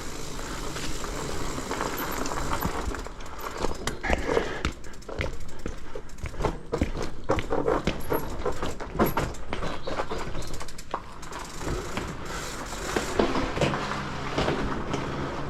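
Bicycle being ridden on wet roads: a steady noisy rush with frequent clicks and knocks from the moving bike.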